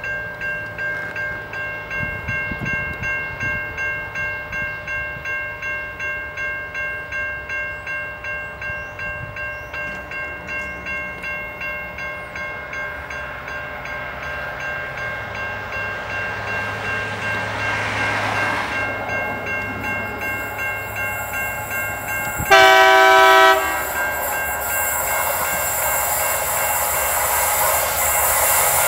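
Diesel locomotive of an approaching grain train sounding its horn once, a loud blast of about a second roughly three-quarters of the way in. The train's engine and wagons grow louder toward the end. Before the horn, a ringing repeats about twice a second.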